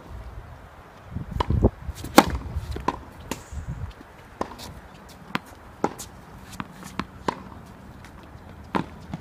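Tennis balls being hit with rackets and bouncing on the court: a string of sharp, irregular hits and bounces, the loudest about two seconds in.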